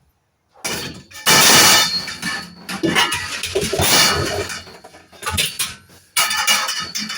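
Hard metal scrap clattering and crashing in repeated loud bouts, loudest about a second in, with a short break before one more burst near the end.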